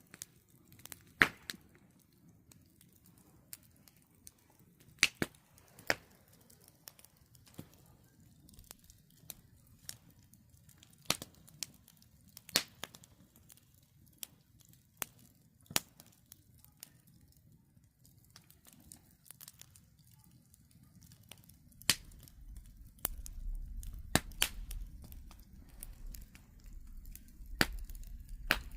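Wood campfire crackling, with sharp irregular pops every second or so, the loudest about a second in. A low rumble joins in about two-thirds of the way through.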